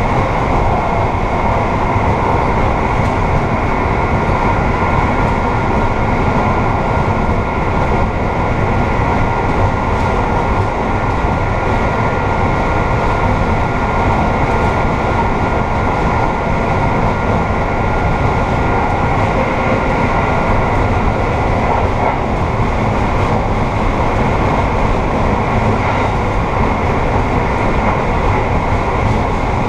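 Steady rumble and rush of an Amtrak passenger train running at speed, heard from inside the rear car's vestibule, with a faint steady high whine over the rumble.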